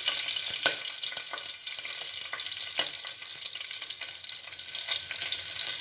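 Green chillies and whole spices sizzling and crackling in hot oil in a pressure cooker, with a few sharp clicks of a spoon stirring against the metal.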